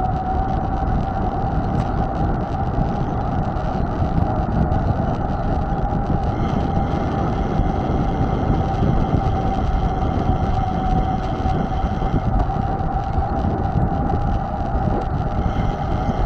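Steady wind and rolling noise of a mountain bike ride, with a constant high whine running through it.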